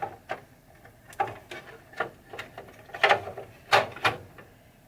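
Irregular clicks and knocks of parts being handled and fitted together as the face is put onto the Rudy head assembly of a Williams Funhouse pinball machine, the loudest knocks a little after three seconds in and near four seconds.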